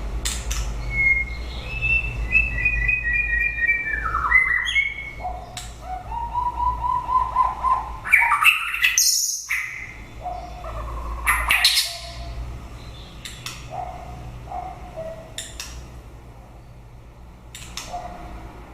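White-rumped shama singing in varied phrases of quick repeated whistled notes. A fast falling sweep comes about four seconds in, then a lower run of notes and a loud burst of song around eight seconds. It ends with sparser short notes and sharp clicks, over a steady low hum.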